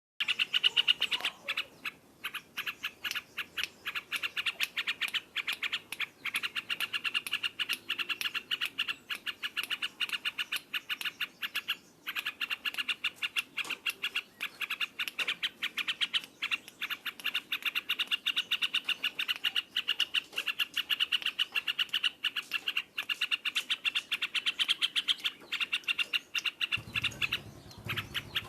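Yellow-vented bulbul (trucukan) singing loudly in a long, rapid, unbroken chatter of notes, with only a couple of brief breaks. A low hum comes in near the end.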